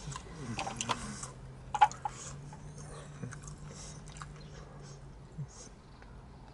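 A man chewing a mouthful of fried fish and chips, with wet clicks and smacks and one sharp click about two seconds in. Under it runs a low, steady hum that slides down at the start and stops about five seconds in.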